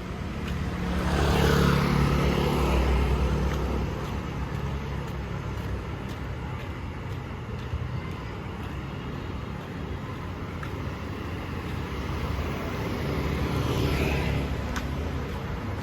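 City street traffic: one motor vehicle passes close by about a second in and another near the end, over a steady hum of traffic.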